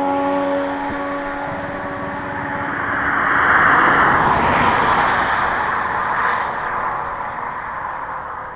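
Motorcycle drive-by: a passing bike's engine note, just dropped in pitch, holds steady and fades over the first two seconds, then a rush of noise swells to a peak about four seconds in and dies away.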